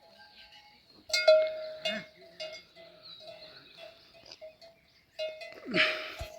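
A metal livestock neck bell clanking irregularly as the animal moves, each strike ringing on one clear tone, with a few louder clanks. A short rough noise comes near the end.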